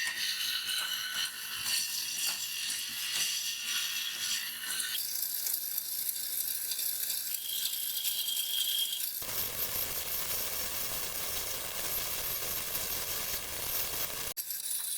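Homemade chain-and-sprocket grinder mechanism clicking and rattling. About nine seconds in, a steady rushing noise takes over and cuts off abruptly near the end.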